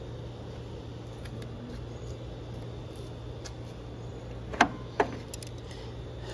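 Handling noises while a fuel line is pushed onto its fitting: faint ticks, then two sharp knocks close together near the end followed by a few light clicks, over a steady low hum.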